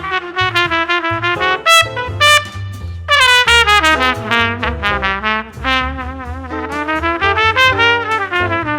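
Jazz trumpet solo, the trumpet playing a run of bright, gliding phrases with two short, loud high notes near the two-second mark, over walking upright bass, piano and drums.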